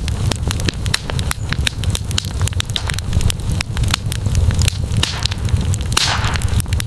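Campfire burning, with dense, irregular sharp crackles and pops over a steady low rumble, and a brief rush of hiss about six seconds in.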